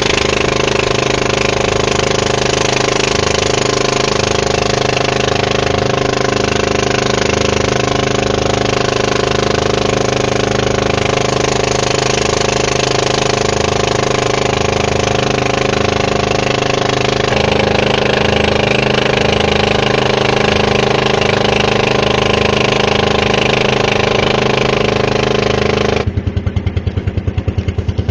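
Boat engine running steadily at speed, then throttling down suddenly near the end to a slow, pulsing idle.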